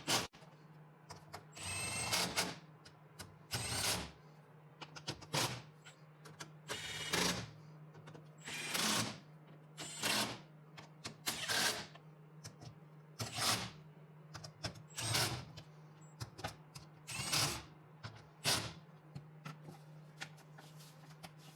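A tool run in short bursts of about half a second, repeated every one and a half to two seconds, over a steady low hum.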